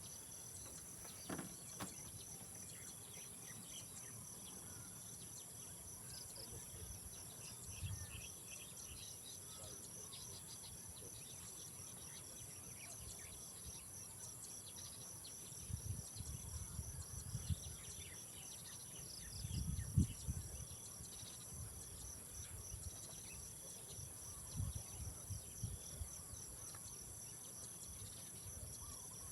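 Insects chirring steadily, crickets among them, in two high-pitched trills, the lower of which pulses rapidly. Low thuds and rumbles come in brief clusters past the middle and near the end.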